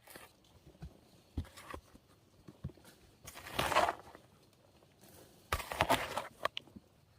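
Rustling and crunching handling noise, in two longer bursts with scattered clicks and knocks between them.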